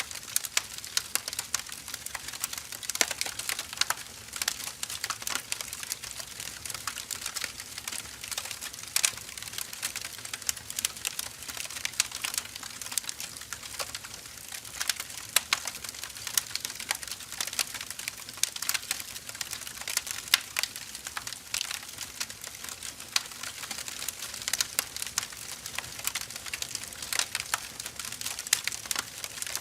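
Firewood logs burning: a steady crackle of many irregular sharp pops and snaps over a soft hiss.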